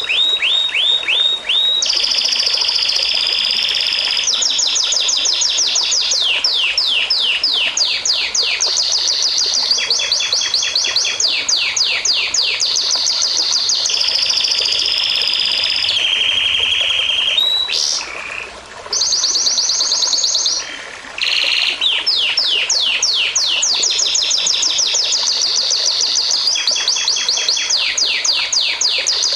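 A songbird singing continuously in fast repeated phrases: runs of quick falling notes alternating with held trills, with two short breaks past the middle.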